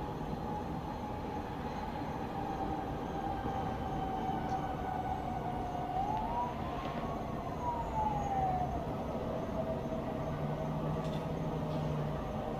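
A distant siren wailing over the steady hum of town traffic: its pitch sags slowly, swells up about halfway through, then falls away again.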